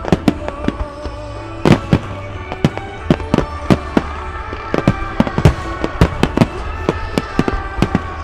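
A starmine barrage of aerial firework shells bursting in rapid, irregular succession, several loud bangs a second, with music from the venue's loudspeakers underneath.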